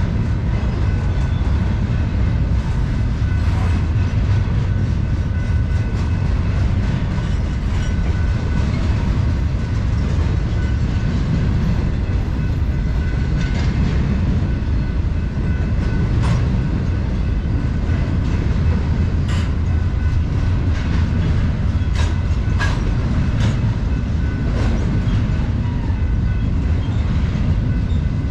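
Intermodal freight train cars rolling past: a steady rumble of wheels on rail, with a faint steady high squeal and sharp wheel clicks here and there.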